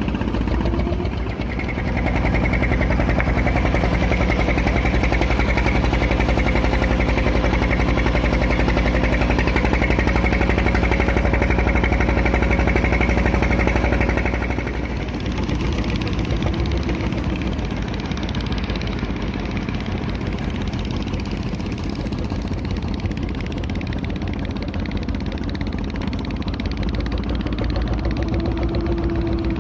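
Klotok river-taxi boat engine running steadily, louder for the first half, then easing off to a lower level about halfway through.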